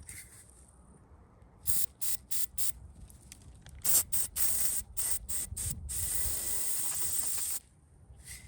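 Spray hissing in short bursts: four quick ones, then several more, then one continuous spray lasting about a second and a half.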